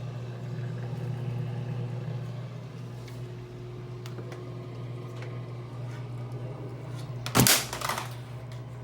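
A laundry machine's electric motor running with a steady low hum. About seven and a half seconds in there is a short, loud clatter, followed by a smaller knock.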